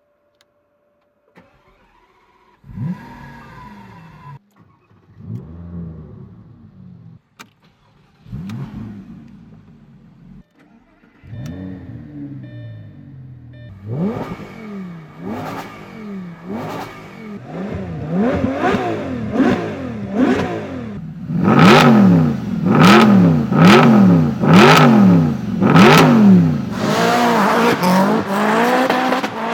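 Supercar engines in a run of short clips: an engine bursts into life a few seconds in, then repeated throttle blips. From the middle on they come about once a second and grow louder, each rev rising and falling in pitch.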